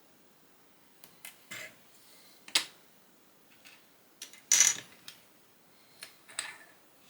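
Lego bricks clicking and clattering as pieces are handled and snapped together: about ten short plastic clicks, the loudest about two and a half and four and a half seconds in.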